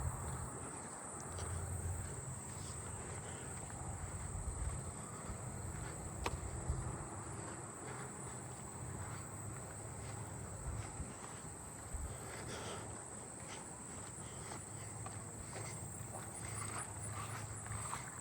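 Crickets trilling steadily at one high pitch, which the listener takes for handsome trigs, over a low rumble.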